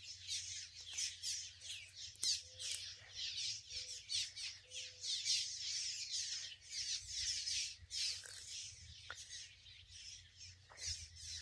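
A colony of birds nesting in mud nests, calling non-stop: many overlapping high, quick chirps and squeaks, with a faint low hum underneath.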